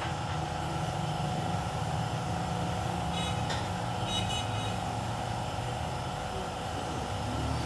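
A car engine idling steadily, a constant low hum. A few faint high chirps come a little after the middle.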